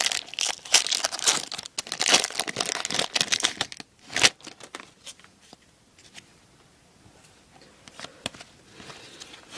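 Foil wrapper of a baseball card pack being torn open and crinkled by hand, dense crackling for about three and a half seconds and one more burst just after four seconds. Then only faint handling clicks.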